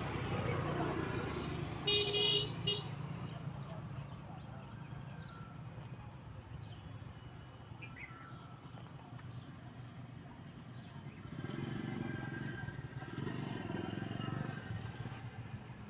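Road traffic going by, with a short vehicle horn toot about two seconds in and a couple of vehicles swelling past near the end.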